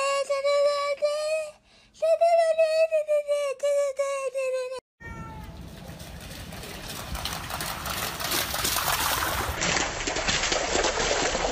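Siberian husky howling in two long, steady notes. After a pause these give way to a steady rushing noise that grows louder.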